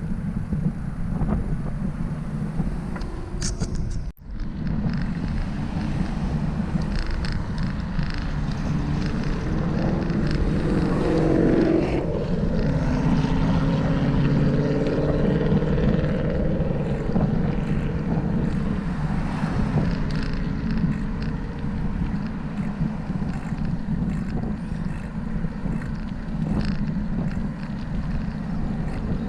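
Wind buffeting the microphone of a camera on a moving bicycle: a steady low rumble, with street traffic passing. Around the middle a vehicle goes by, its engine note gliding in pitch, and the sound drops out briefly about four seconds in.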